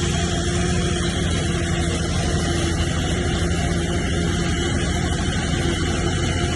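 A bulldozer's diesel engine running steadily under load, with an even, unchanging engine note.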